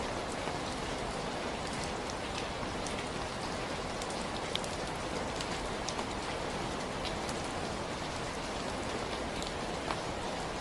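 Steady rainfall, an even hiss with many individual drops pattering on a surface.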